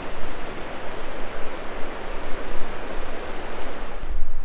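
The Hoh River rushing: a steady noise of fast-flowing water.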